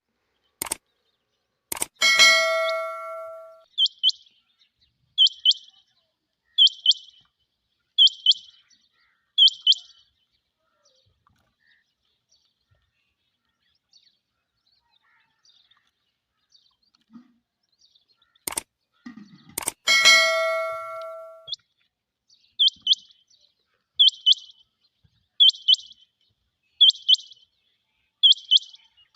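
Rain quail calling: runs of five sharp, high double-note calls, about one every second and a half. Each run is preceded by two clicks and a bell-like chime. The whole sequence plays twice.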